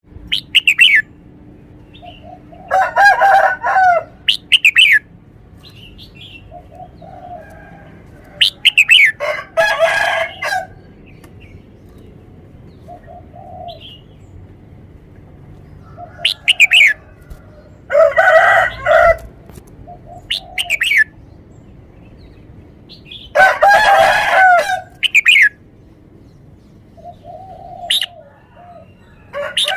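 Red-whiskered bulbul singing short, bright whistled phrases every few seconds. Four longer, louder, lower calls break in among them.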